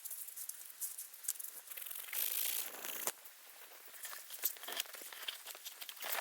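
Crinkly rustling with many small crackles and clicks, growing into a louder, denser rustle for about a second two seconds in.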